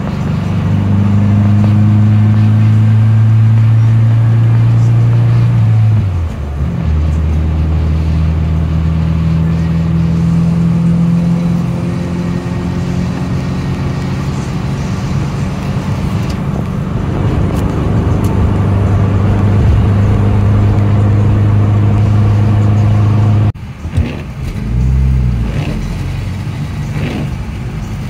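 Classic Mini's four-cylinder A-series engine droning steadily as the car drives, heard from inside the cabin. The drone drops in pitch about six seconds in and breaks off abruptly near the end, after which it comes back less steady.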